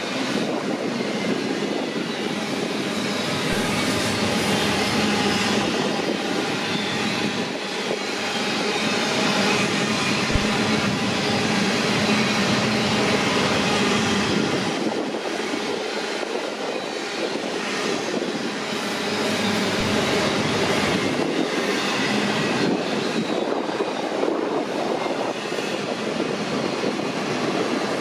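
BNSF double-stack intermodal freight train's container well cars rolling past at close range: a steady noise of steel wheels running on the rails.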